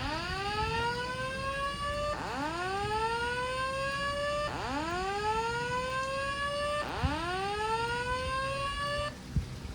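Fire alarm speaker strobes sounding a whoop evacuation tone: four rising sweeps in a row, each a little over two seconds long, which stop about a second before the end.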